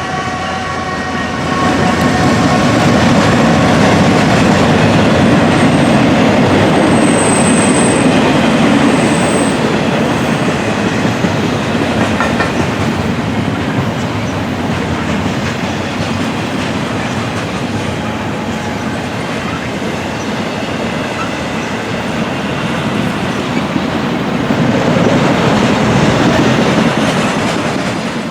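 Train rolling past close by: a loud, steady rumble of wheels on rails that eases a little midway and swells again near the end.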